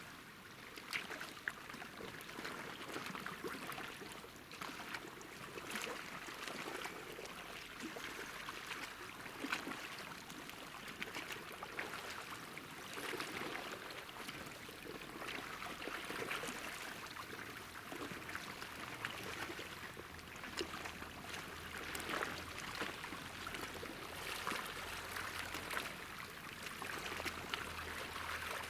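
Calm sea lapping at the shoreline: small waves splashing and trickling in a steady wash with many little splashes and no large breakers.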